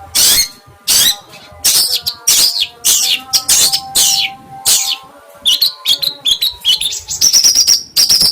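A songbird calling loudly: a run of sharp, falling calls about every two-thirds of a second, then a quicker chatter ending in a held high whistle.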